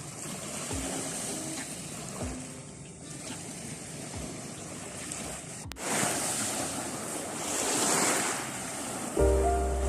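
Sea waves washing onto a shore, one wave surging up louder about six seconds in and then fading. Soft background music comes back in near the end.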